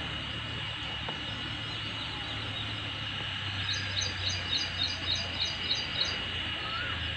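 A small bird calling a quick run of high, evenly spaced chirps, about four or five a second, starting about halfway through and lasting a couple of seconds. Behind it is a steady outdoor background with a constant thin high tone.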